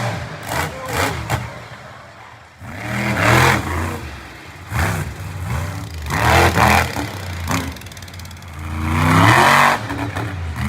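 Monster truck engine revving hard in repeated bursts, about four surges each rising then falling off, with quieter stretches between.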